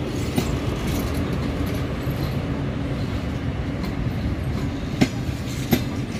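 Passenger coaches of a long-distance train rolling past at low speed: a steady rumble of wheels on rail, with two sharp clacks near the end as wheels cross a rail joint.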